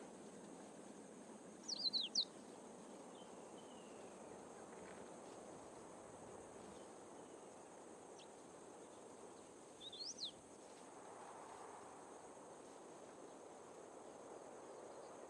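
Quiet dry-season bush ambience with a faint steady high hiss, broken twice by a short burst of quick, steeply sweeping bird calls, about two seconds in and again about ten seconds in.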